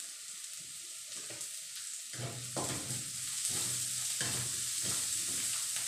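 Pork cubes frying in hot oil with sautéed garlic and onion in a steel wok, a steady sizzle. From about two seconds in, a spatula stirs and scrapes in the wok in repeated short strokes.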